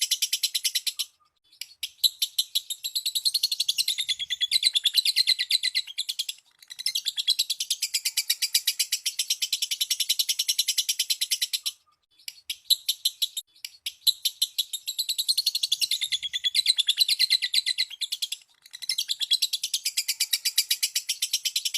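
Lovebird chattering in long, rapid high-pitched trills (the drawn-out 'ngekek' used as bait sound to set other lovebirds calling), breaking off briefly about four times.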